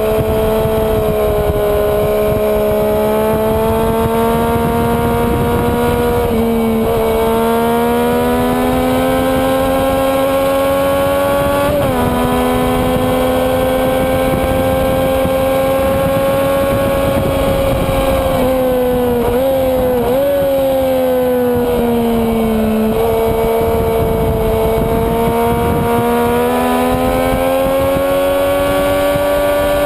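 Sport-bike engine at high revs on a racetrack, heard from on board. The pitch climbs and sags with the throttle and drops sharply at gear changes, over a steady rush of wind.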